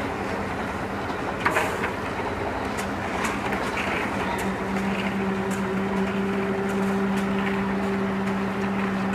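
Heavy construction machinery running steadily with a constant hum, with scattered knocks and clanks; the loudest knock comes about a second and a half in.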